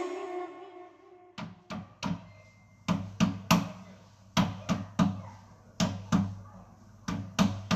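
Sharp knocks or taps in quick sets of three, about three a second, with short pauses between sets, repeated five times, as the music fades out at the start.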